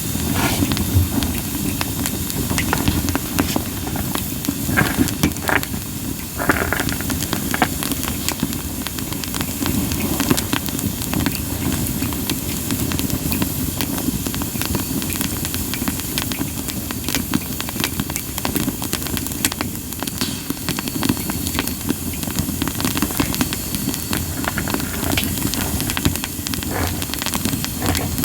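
Campfire of split sawtooth oak (kunugi) firewood burning with a steady hiss and many small crackles, with a few louder pops about five to seven seconds in.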